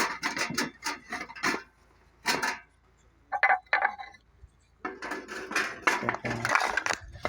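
Metal objects clattering and clinking as they are handled: a run of quick knocks, a pause, a few short ringing clinks about three and a half seconds in, then more clattering.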